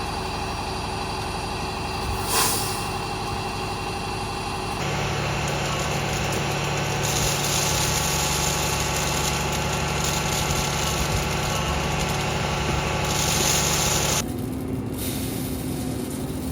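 Heavy diesel farm machinery running steadily, a steady engine hum that changes abruptly twice, at about 5 s and again near 14 s.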